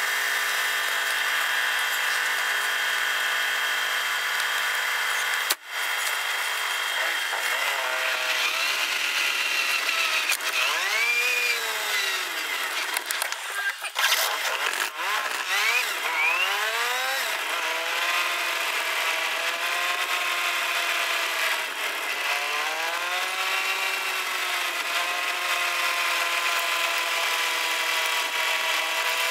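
A 1969 Fiat 500's small air-cooled two-cylinder engine, heard from inside the cabin. It idles steadily, drops out for an instant about five seconds in, then revs up and falls back again and again as the car pulls away and shifts through the gears, settling to gentler rises and falls near the end.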